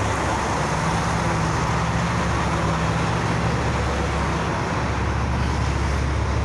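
Steady road noise of vehicles driving at highway speed: tyre and wind noise over a constant low engine drone.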